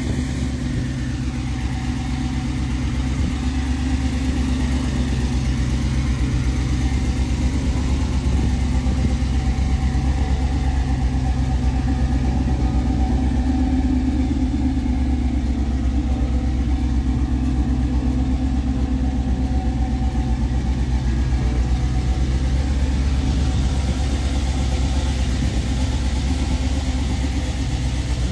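1955 Chevrolet 210's 388 stroker V8 with Hooker headers, idling steadily with a deep, even rumble.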